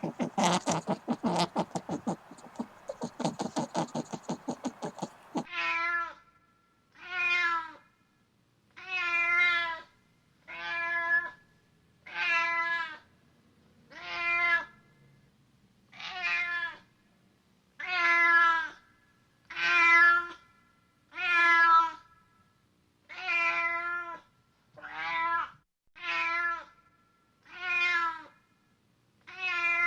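An animal calling over and over, about fifteen short wavering, meow-like cries at a steady pace of one every one and a half to two seconds. They follow a few seconds of rapid scratchy clicking at the start.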